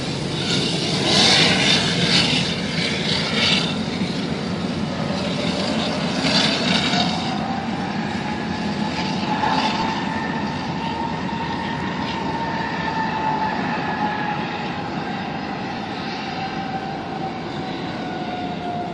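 Airbus A330 jet engines at taxi power: a steady rumble and rush with a whine that rises slightly and then slowly falls away, and louder surges of hiss in the first few seconds.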